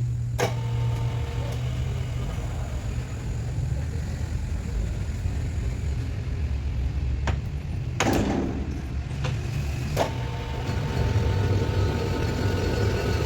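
A machine running steadily with a low hum, with a short sharp knock about eight seconds in and another about two seconds later.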